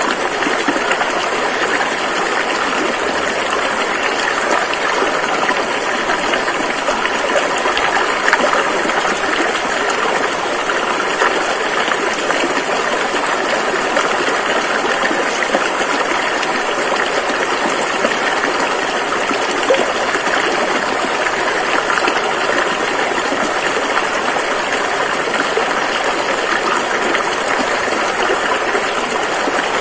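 Rushing river water flowing steadily over rocks, a constant loud splashing and gushing.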